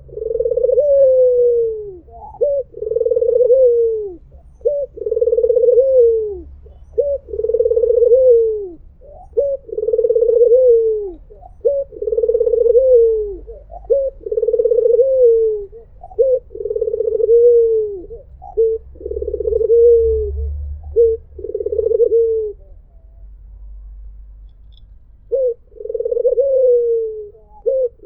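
White (albino) puter, the domestic Barbary or ringneck dove, cooing over and over, each coo a short note then a long rolling one that drops in pitch at its end, about one every two seconds. The coos stop for about two seconds near the end, then start again.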